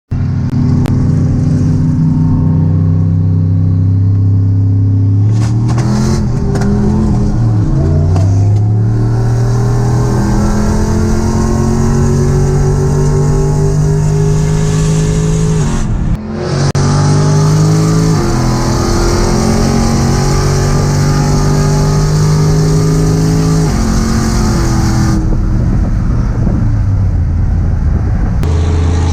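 Vehicle engine accelerating hard under load, its pitch climbing, then dropping at gear shifts about eight, sixteen and twenty-four seconds in before climbing again.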